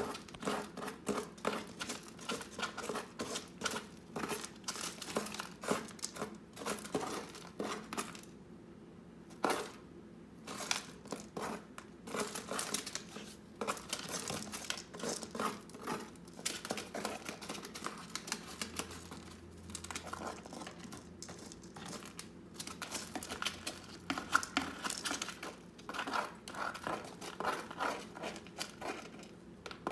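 Sun conure parrot shredding material in his box: rapid crinkling and tearing in quick bursts, with short pauses about eight and twenty-one seconds in.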